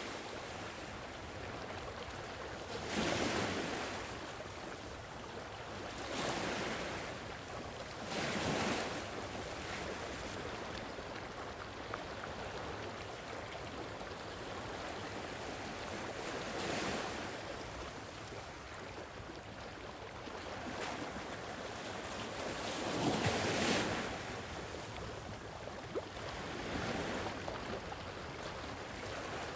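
Sea waves washing onto a shore: a steady hiss of surf with louder surges at irregular intervals of a few seconds.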